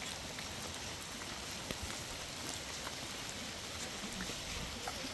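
Steady rain falling, a constant hiss dotted with the sharper ticks of individual drops striking nearby surfaces.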